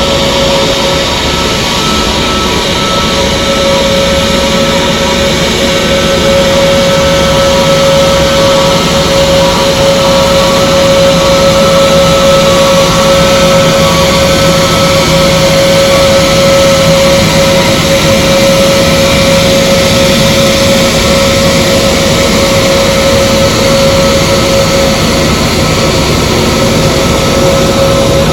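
Aircraft engines running steadily with a constant high whine over a broad rushing noise, growing a little louder over the first few seconds and then holding level.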